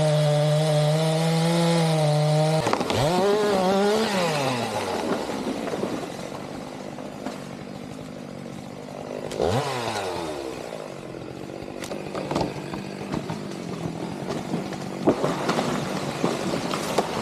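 Two-stroke chainsaw running at full throttle, then released about two and a half seconds in so its revs fall away to idle. It gives one short rev about ten seconds in and then idles, with a few sharp knocks near the end.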